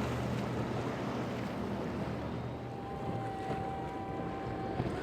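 Boat engine running amid wind and water noise, with wind buffeting the microphone. A steady higher tone joins about halfway through and stops just before the end.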